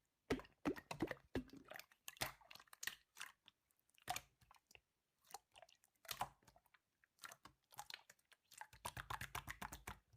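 Slime being played with by hand: irregular, faint, crunchy clicks and small crackling pops.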